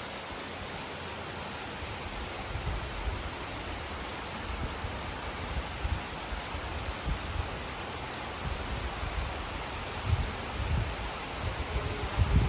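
Monsoon rain falling steadily in a dense, even hiss of drops on surfaces, broken by irregular low thumps that grow louder near the end.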